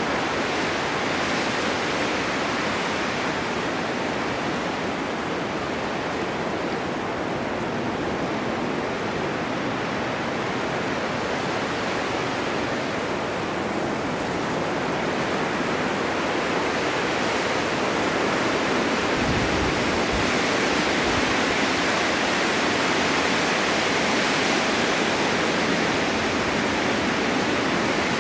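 Snowstorm wind blowing steadily, an even rushing noise that swells slightly louder over the second half.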